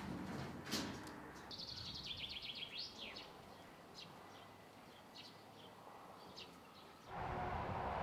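Bird calls outdoors: a quick run of high, chattering chirps, then scattered single chirps, with a knock just before them. About seven seconds in, a louder, steady rushing noise suddenly takes over.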